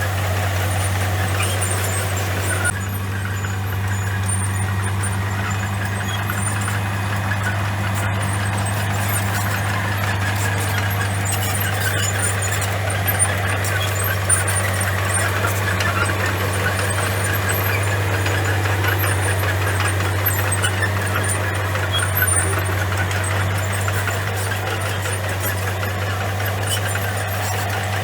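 Komatsu crawler bulldozer's diesel engine running steadily as a deep, even drone, with a few short knocks about halfway through.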